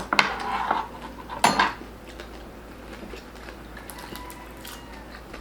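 Eating crispy pork belly by hand: two sharp crunching cracks, one right at the start and another about a second and a half in, then only faint handling noise.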